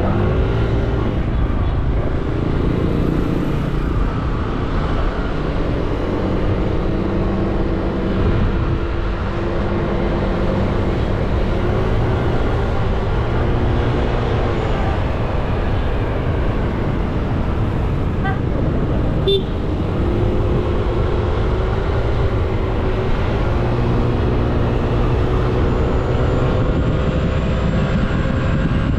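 Motorcycle engine running under way with road and wind noise, its pitch slowly rising and falling with speed. A brief sharp click about two-thirds of the way through.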